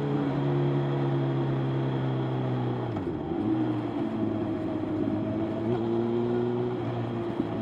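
Motorcycle engine running steadily under way. The engine note dips briefly and climbs back about three seconds in.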